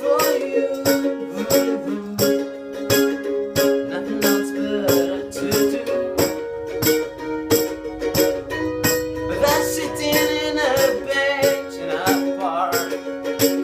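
Live acoustic music in an instrumental break: a strummed string instrument keeps a steady rhythm of chords with regular percussive strokes. A wavering melody line comes in briefly after about ten seconds.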